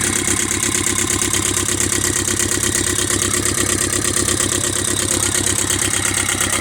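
Raw-water-cooled marine engine idling steadily on a test run, with an even, rapid firing pulse.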